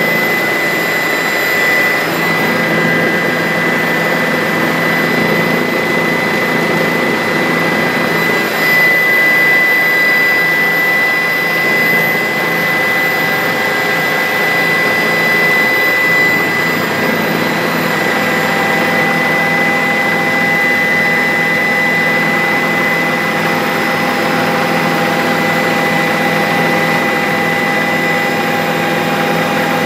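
Bell 407 helicopter in flight: its turboshaft engine and rotors make a steady, dense rushing noise with a constant high whine, holding level throughout.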